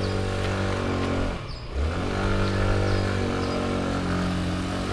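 Motor scooter engine running steadily under way, with a brief drop about a second and a half in before it picks up again.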